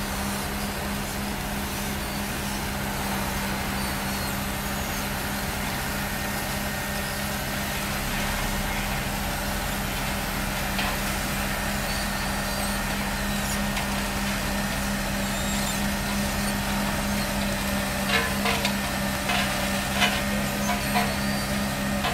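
Heavy diesel road-paving machinery running steadily, a constant low engine hum, with a few sharp metallic knocks near the end.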